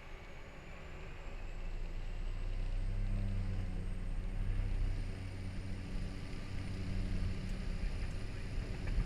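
Cessna 208 Caravan's Pratt & Whitney PT6A turboprop heard from the cockpit. Power comes up: a low drone grows louder over the first few seconds and then holds steady, while a thin high turbine whine slowly rises in pitch.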